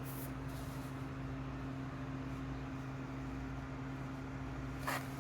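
A steady machine hum with a low, even drone, unchanging throughout; a couple of short clicks or rustles near the end.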